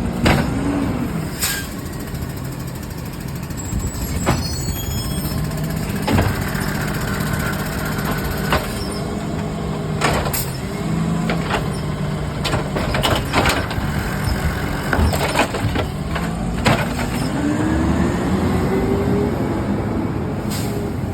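Peterbilt 320 garbage truck's engine running steadily, with repeated sharp knocks and bangs. About three-quarters of the way through, a rising whine as the engine revs up.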